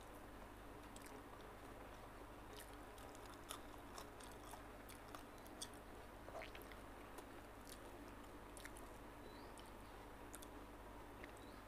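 Faint close-up chewing of a mouthful of rice and chili-coated eel, with scattered small clicks and smacks, over a low steady hum.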